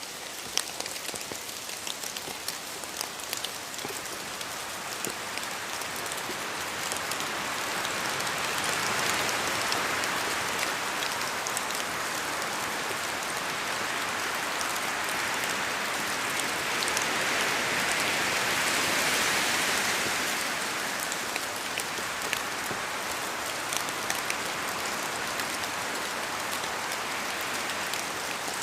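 Steady rain falling, with many separate drops ticking close by, growing louder in two long swells.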